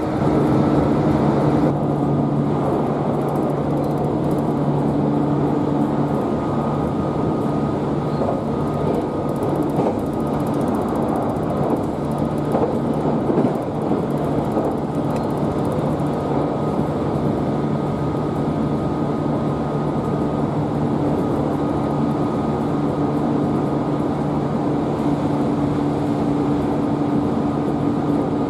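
Train noise: a steady rumble with a constant low hum.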